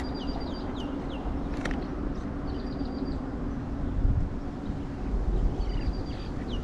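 A songbird repeats a short phrase three times, a quick flat trill followed by a few falling whistles. Underneath it runs a steady low rumble of wind on the microphone and distant traffic.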